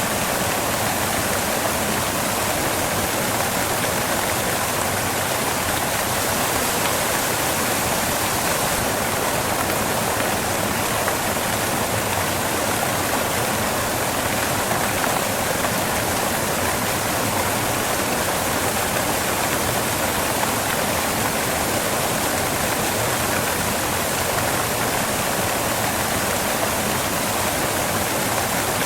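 Waterfall pouring onto rocks, a steady rushing of water that stays even throughout.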